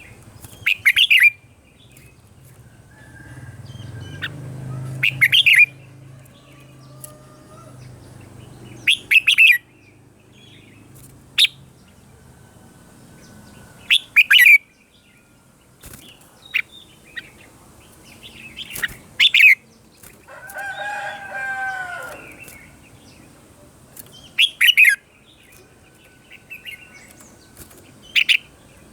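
Red-whiskered bulbul singing short, loud, clipped phrases every few seconds, with one longer warbling phrase about two-thirds of the way in.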